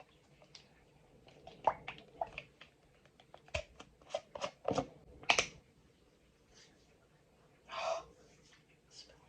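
Handling noises close to the microphone: irregular clicks and taps for a few seconds, then a short rustle near the end.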